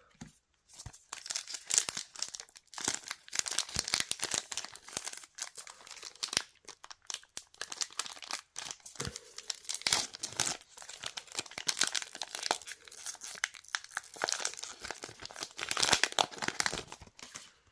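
Trading card booster pack wrapper being torn open and crinkled by hand: a long run of papery crackling and tearing that starts about a second in and stops just before the end.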